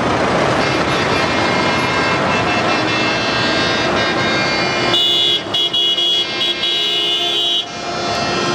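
Tractors running with a vehicle horn held for about two and a half seconds, starting about five seconds in.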